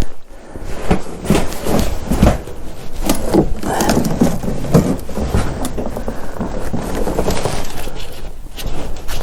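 Irregular scrapes, clicks and knocks of hands working on a snowmobile while checking the oil level in its oil tank.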